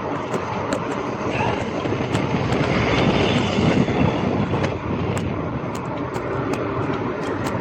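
Riding noise from a bicycle: steady tyre rumble and wind on the camera's microphone, with scattered sharp ticks and rattles, swelling a little about three seconds in.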